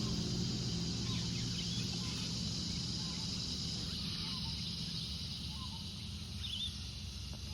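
Young chickens giving a few soft, scattered peeps over a steady low hum.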